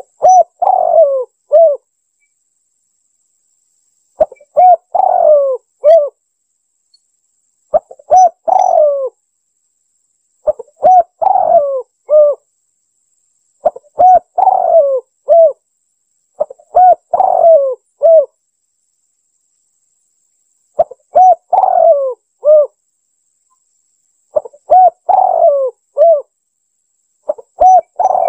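Spotted dove (tekukur) cooing, a bird-lure recording: a phrase of three or four coos, repeated nine times about every three seconds with dead silence between phrases.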